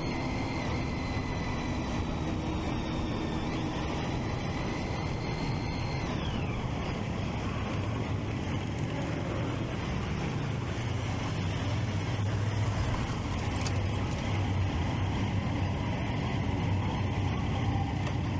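Triumph Street Triple 675's three-cylinder engine running under way, mixed with wind and road noise. A thin high whine fades out about six seconds in, and the engine grows louder in the second half.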